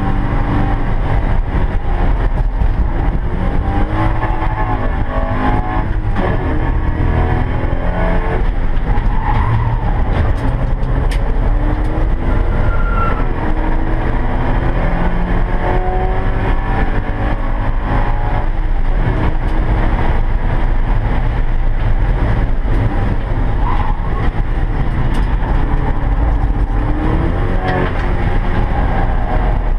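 Porsche 944 race car's inline-four engine heard from inside the cabin, running hard at racing speed. Its pitch rises and falls again and again as the car brakes, changes gear and accelerates through corners.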